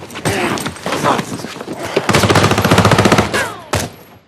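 Automatic gunfire: scattered shots, then a dense rattling burst about two seconds in that stops a little over a second later.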